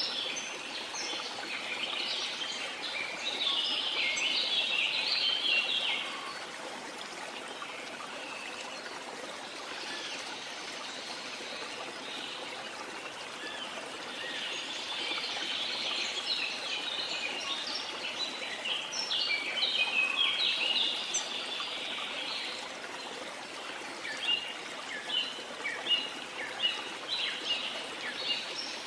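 Birds chirping in dense flurries over the steady rush of flowing water. Near the end a bird repeats short sharp notes about twice a second.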